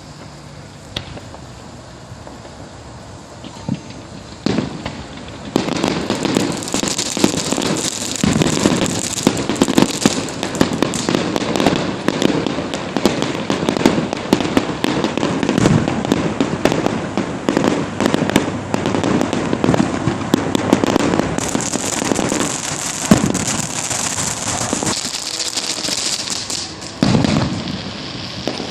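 Fireworks going off: a few scattered bangs at first, then from about five seconds in a dense, rapid crackle of many small pops with no let-up until near the end.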